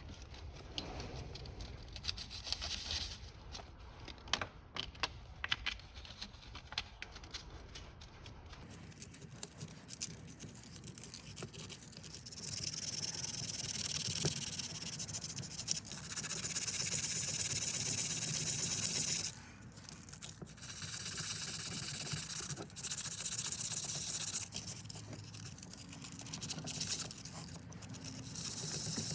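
Light clicks and taps of small carburetor parts being handled. After that come several stretches of steady scrubbing or scraping, each a few seconds long, as the gasket surface on the carburetor is cleaned up.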